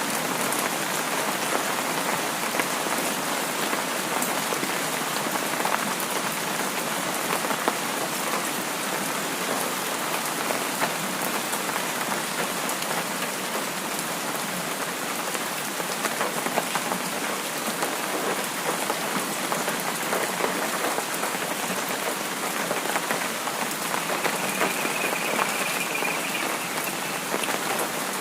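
Steady rain falling, an even hiss dotted with the patter of individual drops.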